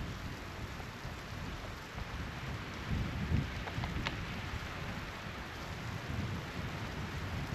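Wind rumbling unevenly on the microphone over a steady hiss, with a few faint ticks.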